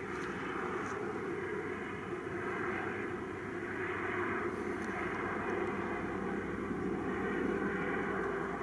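Fixed-wing aircraft engines running steadily, growing a little louder toward the end.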